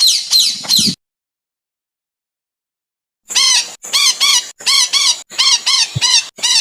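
Songbird calls from a masteran training recording: a quick burst of three high falling chirps, then, after about two seconds of dead silence, a run of short bursts of two or three arched whistled notes, each burst cut off clean.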